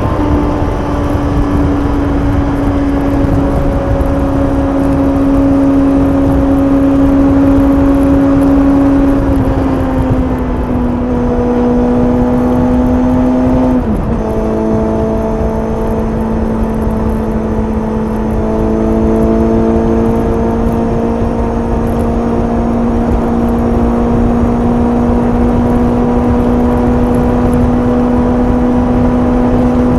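Suzuki GSX-S750's inline-four engine through its stock exhaust, cruising at highway speed at fairly steady revs, with wind rush. The pitch sags slowly and steps lower, with a quick dip about halfway through as the revs drop and settle.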